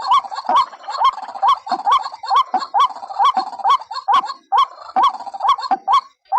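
White-breasted waterhen calling: a rapid run of short, rising notes, about two a second, with brief breaks about four and a half seconds in and near the end. It is played as a lure call to draw the birds in.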